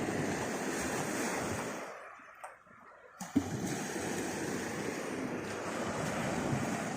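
Sea surf washing on the shore: a steady rush of water noise that drops away for about a second, two seconds in, and comes back with a sharp click.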